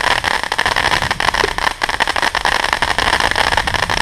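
Fireworks crackling and hissing steadily, a dense stream of small pops.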